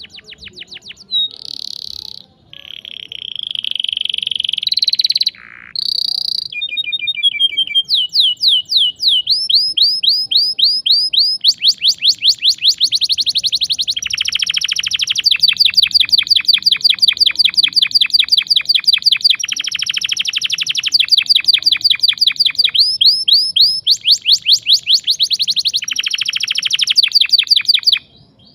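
Domestic canary singing a long song of sharp rolls: fast series of rapidly repeated rising notes, broken by short pauses, with a buzzy held note a few seconds in.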